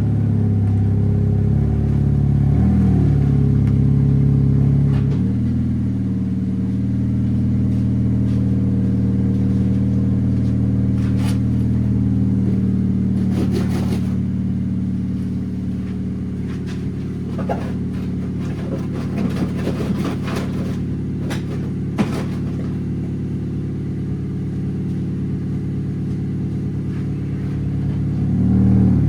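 Honda Civic four-cylinder engine running loud through an exhaust leak at a rusted-out pipe just before the muffler. The revs shift briefly a few seconds in, then the engine idles steadily, with a few sharp knocks about midway.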